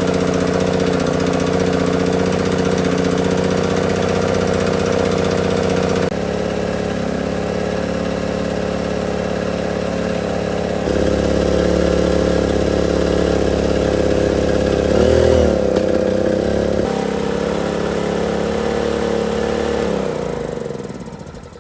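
A 5.5 kW portable generator's petrol engine running at steady speed. About fifteen seconds in, its pitch wavers briefly down and back up, and near the end the sound dies away.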